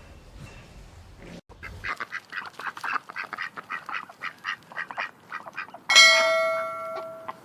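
Ducks quacking in a quick run of short calls. About six seconds in, a loud bell-like chime strikes and rings away.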